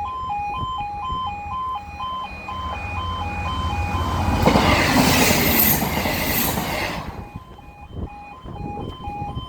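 Level crossing alarm sounding its two-tone warning, alternating about twice a second, while a train passes over the crossing. The train's rush builds, is loudest about five seconds in, and fades out about two seconds later, with the alarm still going.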